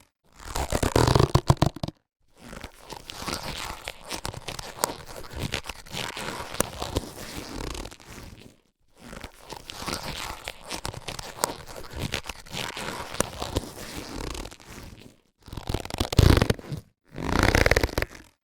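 Latex surgical gloves being handled, rubbed and stretched, with crackly, squeaky rubbing in several stretches broken by brief silences. The handling is louder at the start and again about three-quarters of the way through.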